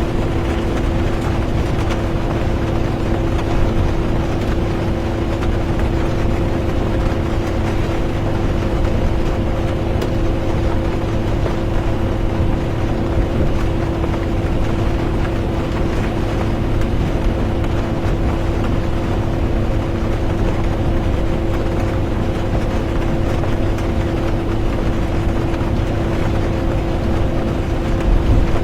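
Bus interior while driving: a steady engine drone with a constant hum, low road rumble and an even hiss of tyre and rain noise.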